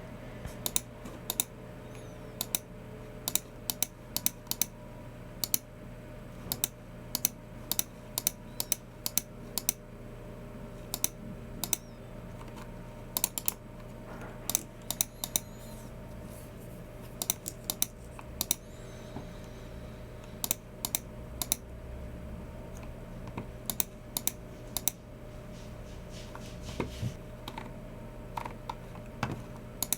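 Typing on a Logicool MX Keys Mini low-profile keyboard: short, light key clicks in irregular runs of a few keystrokes with brief pauses between, over a faint steady low hum.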